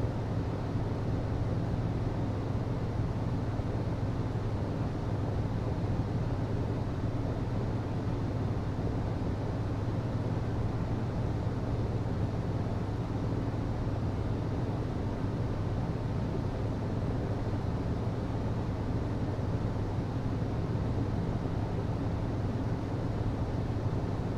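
HVAC system running steadily: a constant low hum with a hiss of moving air over it, unchanging throughout.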